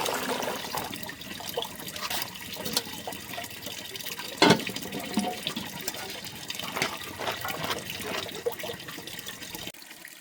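Water splashing and pouring, broken by small clicks and one loud knock about four and a half seconds in; it drops away near the end.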